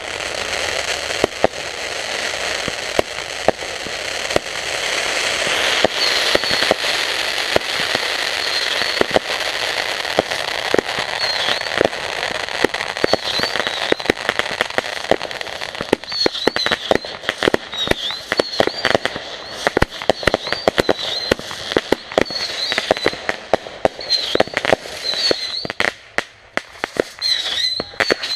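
Backyard consumer fireworks going off: a steady hiss with dense crackling pops. The hiss thins about halfway through, leaving scattered pops and short high chirps repeating about once a second.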